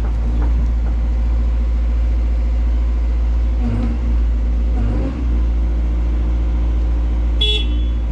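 Diesel engine of a CAT 320 GC excavator running steadily under working load, with a constant low rumble that shifts slightly in the middle. A brief sharp high-pitched sound near the end.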